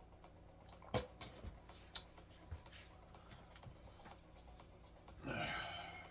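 A few sharp light clicks and knocks, the first the loudest, then a short rushing noise near the end.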